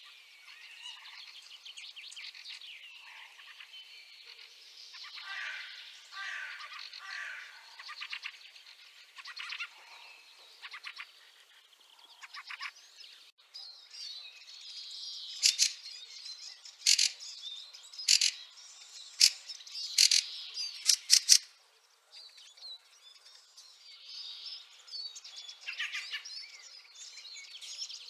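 Fieldfares calling: squeaky, chattering notes throughout. In the middle comes a series of loud, sharp, harsh calls a second or so apart.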